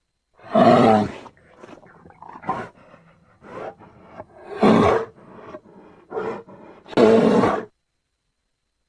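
Grizzly bear roaring three times, each roar loud and under a second long, with quieter growls between them.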